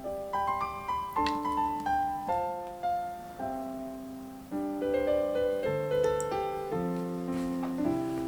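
Background piano music: a slow, gentle melody of single notes and soft chords, each note fading after it is struck.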